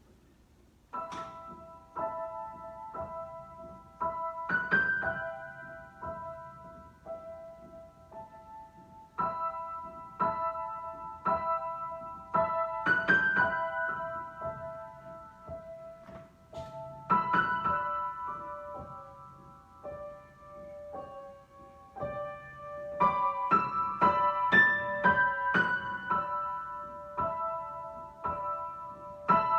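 Solo piano improvising, with single notes and chords struck and left to ring and fade. It starts about a second in and grows busier and louder near the end.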